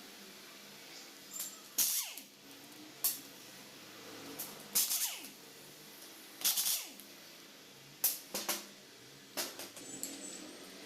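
Sharp metallic clanks and rattles of tools and engine parts being handled while an engine is taken apart, six of them spaced a second or two apart, over a faint steady background hiss.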